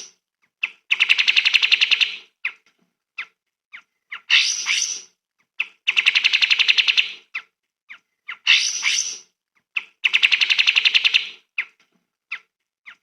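Songbird song from a recording, one phrase looped: scattered sharp chips, a quick tumbling phrase, then a fast rattling trill about a second long. The phrase repeats about every four seconds, three times.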